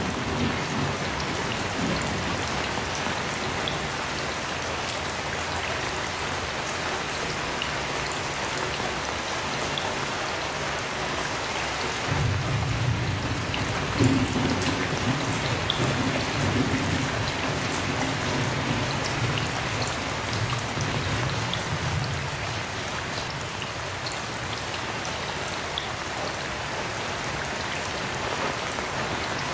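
Heavy rain falling steadily. About twelve seconds in, a low rumble of thunder rolls for about ten seconds before fading.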